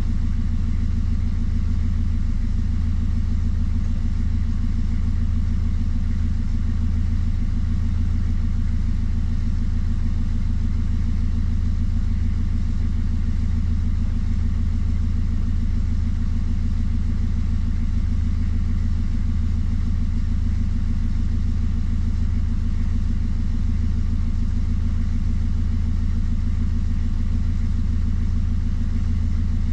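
Motor cruiser's inboard engine running steadily at cruising speed, a constant low drone heard on board.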